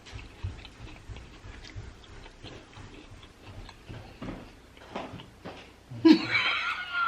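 Faint scattered clicks and taps of a spoon and bowl as fruit in coconut water is eaten, then about six seconds in a loud burst of laughter.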